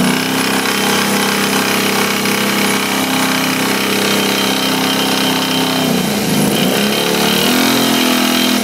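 Kawasaki Brute Force ATV engine running with a major rattle, its revs dipping and recovering about six to seven seconds in. The rattle comes with oil coming out of the exhaust, a fault whose cause the owner doesn't know.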